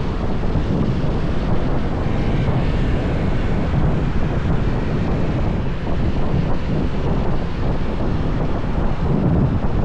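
Wind rushing over the microphone of a moving motorbike, with the motorbike's running noise underneath, steady throughout.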